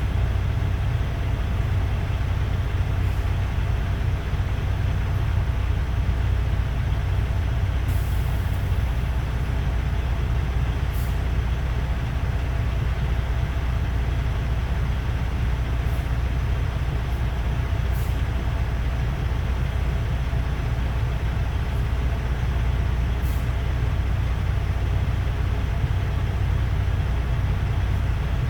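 Diesel semi-truck engine idling: a steady low rumble, with a few faint, short ticks up high scattered through it.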